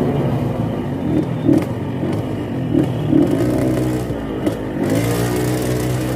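Yamaha RX-King's two-stroke single-cylinder engine, set up for a deep 'ngorok' snoring exhaust note, revved in several short throttle blips and then settling to a steady idle near the end.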